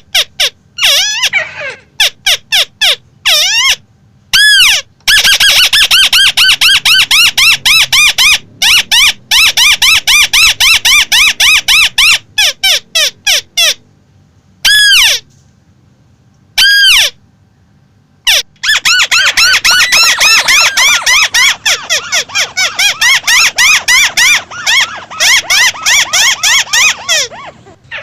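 A crake (burung tikusan) calling: fast runs of repeated, arching notes broken by pauses, with a few single notes in between.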